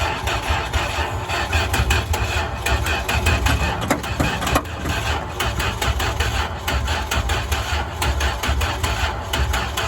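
A 1987 Dodge Dakota truck engine running just after being started, loud and uneven, with a rapid, irregular clatter over a low rumble.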